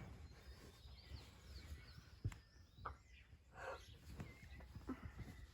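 Faint bird chirps, a few short high calls, over quiet rural background noise.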